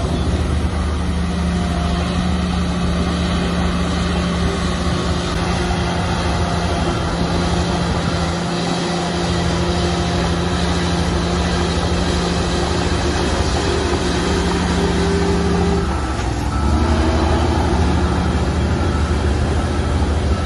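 Heavy diesel earthmoving machinery running steadily under work. About sixteen seconds in, the engine note breaks off and comes back louder and deeper.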